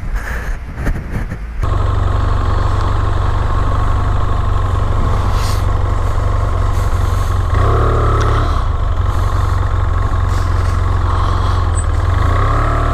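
A motorcycle engine comes on abruptly about a second and a half in and then runs steadily, with a slight swell about halfway.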